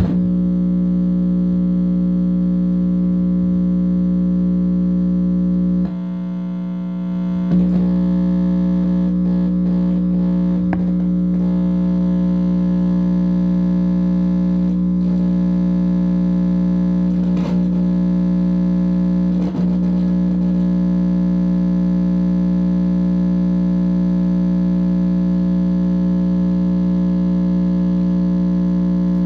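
Loud, steady distorted electrical buzz with a stack of overtones from an amplifier speaker, dipping briefly about six seconds in, with a few faint crackles. The owner takes it for pickup of a directed-energy attack.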